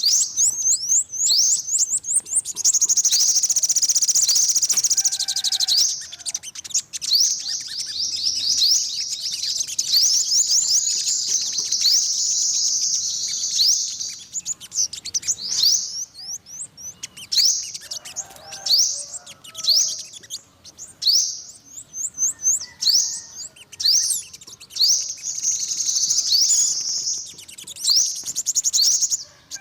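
Yellow-bellied sunbird singing: rapid, high-pitched chirps that run together into dense trills, broken up by series of separate sharp chirps.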